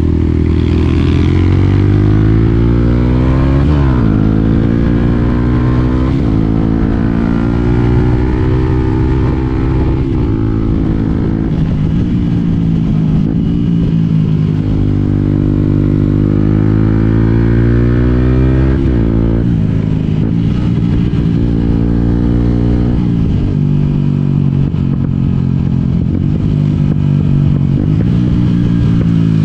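Yamaha WR125X's single-cylinder four-stroke engine under way, the pitch climbing as it accelerates and dropping sharply at each gear change, several times over.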